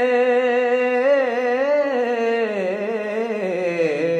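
A solo voice singing an Urdu devotional naat without accompaniment, drawing out one long melismatic note: held steady at first, then wavering in slow ornamental turns and gliding lower toward the end.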